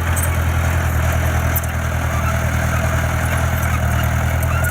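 Heavy construction machine's diesel engine running steadily at a low, even pitch, with a faint pulsing in loudness.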